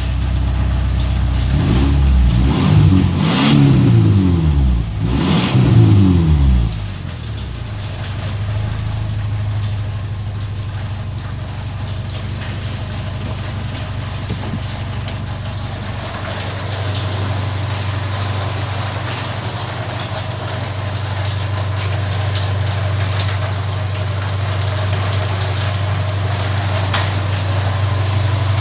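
Subaru Impreza's flat-four boxer engine running: revved twice in the first several seconds, then settling to a steady idle.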